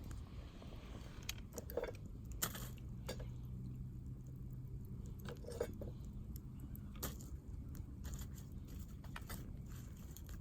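Wood fire crackling in a titanium folding twig stove: scattered sharp pops and snaps, a few louder ones, over a low steady rumble.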